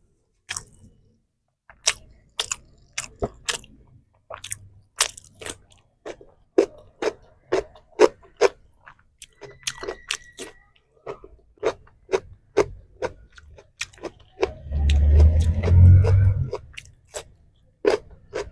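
A person chewing and crunching crisp food close to the microphone, with a steady run of sharp, irregular crackles between bites. About fifteen seconds in there is a louder, longer muffled burst lasting a second or two.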